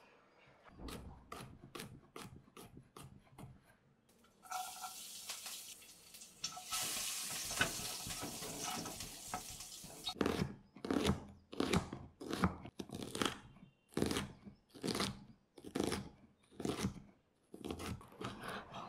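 A small knife cuts garlic cloves on a wooden cutting board in quick light strokes. Then chopped garlic sizzles in hot oil in a pan as a spatula stirs it. A run of regular strokes about a second apart follows, ending with a knife slicing green chillies on the board.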